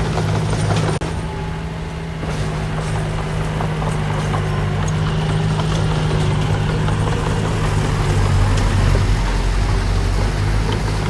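Diesel engine of earthmoving machinery running steadily under load, with scattered light knocks.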